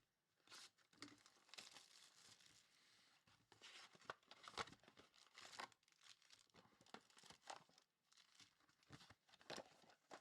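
Faint tearing and crinkling of trading-card pack wrappers being ripped open by hand, in short irregular bursts.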